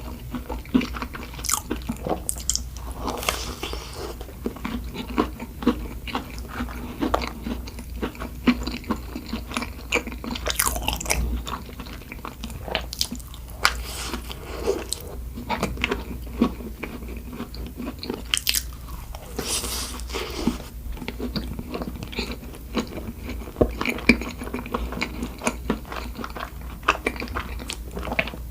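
Close-miked biting and chewing of doughnuts: irregular mouth clicks and smacks, several a second, with no pauses.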